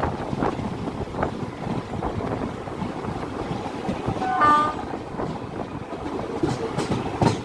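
Train running on the track, a steady rumble and rushing air broken by occasional clacks of the wheels over rail joints. A short horn blast comes about four and a half seconds in.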